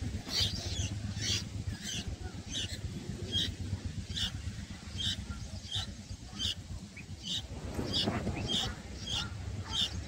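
Bulbul nestlings begging: short, high chirps repeated about twice a second.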